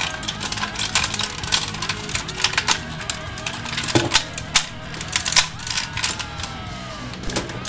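Hard plastic toy parts clicking and tapping as a robot toy is handled, many quick irregular clicks, over background music.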